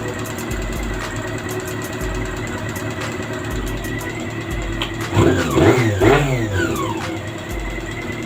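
Honda CB400 Super Four inline-four engine idling, then blipped twice to a quick rev about five and six seconds in, with a faint ticking over the running. The noise is still there after a new cam and gasket, and the mechanic suspects worn internal parts.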